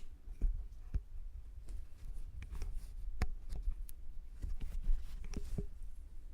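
Metal tweezers picking wet, sticky earwax out of a silicone ear model, close to the microphone: irregular small clicks and taps over a low rumble.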